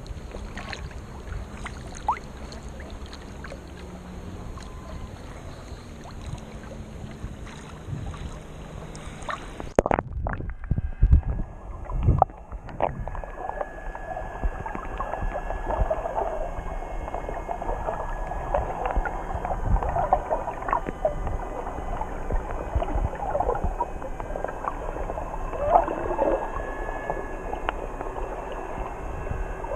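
Muffled sea-water noise picked up by a camera filming in the sea, with a few knocks about ten seconds in. After the knocks the sound turns duller and crackly, as heard underwater.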